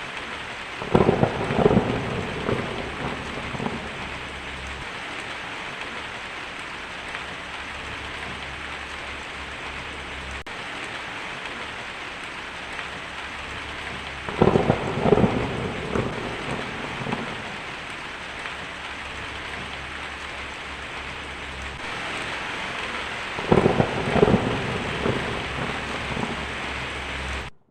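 Heavy rain falling steadily on a tin roof, with three rolls of thunder: one about a second in, one about halfway, and one near the end, each cracking loudly and then rumbling away over a few seconds.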